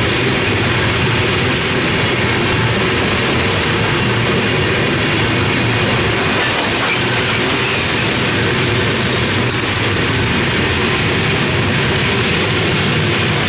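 Freight train of covered hopper cars rolling past: a steady, loud rumble of steel wheels on the rails.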